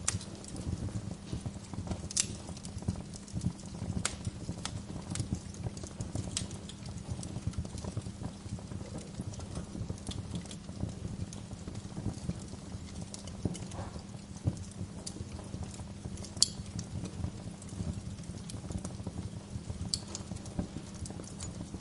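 Wood fire crackling: a dense run of small crackles with a sharper pop every few seconds, the loudest about sixteen seconds in.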